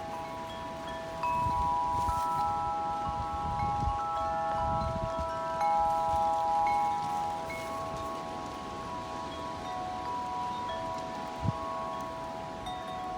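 Wind chimes ringing in gusty wind, several long ringing tones overlapping, with wind rumbling on the microphone and a brief thump about eleven seconds in.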